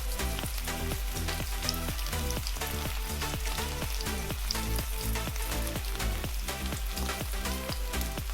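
Steak sizzling in a pan, heard from a cooking video playing on an iPad, under background music with a steady beat.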